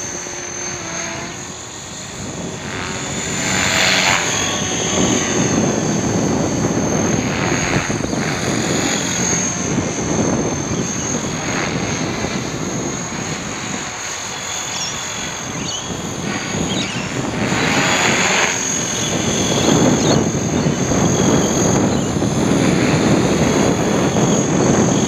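HobbyKing radio-controlled helicopter in flight, its rotor blades whirring with a thin high whine over them. The sound swells and fades several times as it moves around.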